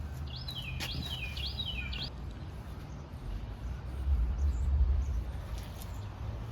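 A songbird sings four quick repeated phrases of falling notes in the first two seconds, over a steady low rumble that swells about four seconds in.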